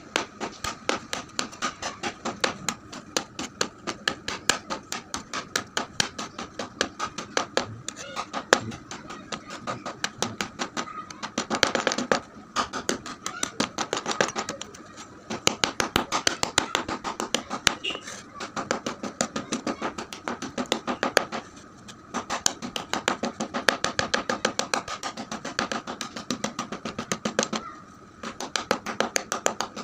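Colourful school chalk being crunched: rapid, continuous crisp crackling, several crunches a second, with a few short pauses.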